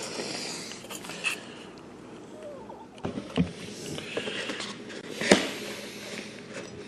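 Packaging rustling and crinkling as a newly delivered gauge is unboxed and handled, with scattered clicks and knocks and one sharp click about five seconds in.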